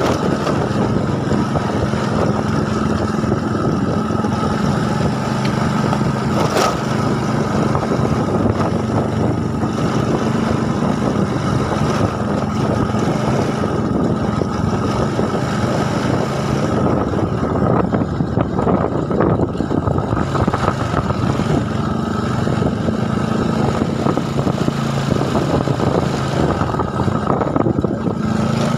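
A small engine running steadily under a rough, continuous rumble.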